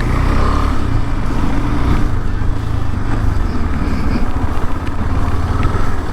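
KTM 390 Adventure's single-cylinder engine running steadily at low speed as the motorcycle is ridden, with a low, even throb.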